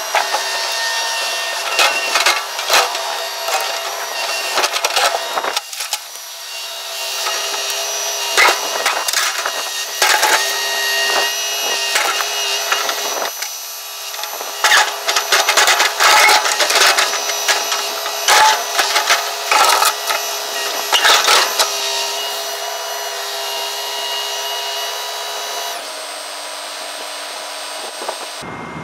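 Link-Belt excavator running with a steady hydraulic whine, its bucket and thumb scraping and clattering against rock and dirt in a long run of crunching and cracking. The machine's pitch drops about 26 seconds in.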